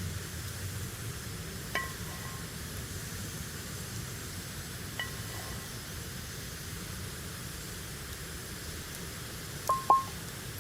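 Four light clinks of glass or metal ware, each ringing briefly: one about two seconds in, one about five seconds in, and two louder ones close together near the end, over a steady low background rumble.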